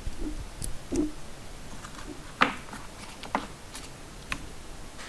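Hands handling earphone packaging and its paper manual: a few separate sharp clicks and taps with soft knocks, the loudest about two and a half seconds in.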